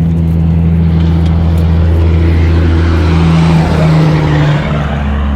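A motor vehicle passing close by: a low, steady engine drone with a rush of tyre noise that builds, peaks about three and a half seconds in as the engine pitch drops, and then fades.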